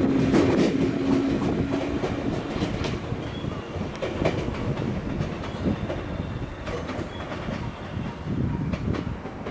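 JR West 221 series electric train pulling away, its wheels clicking irregularly over the rail joints and fading steadily as it recedes. A steady hum sounds in the first two seconds, then stops.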